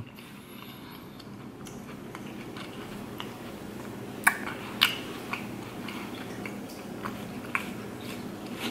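A man chewing a mouthful of cake-like donut with his mouth closed: scattered soft wet mouth clicks and smacks, two sharper ones about four to five seconds in, over a faint steady low hum.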